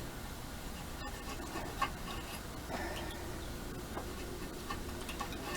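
Light, scattered ticks and scrapes of a hand tool working the rough casting on an intake manifold.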